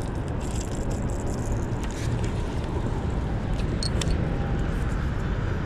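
Steady low rumbling background noise, with a few faint clicks about two and four seconds in.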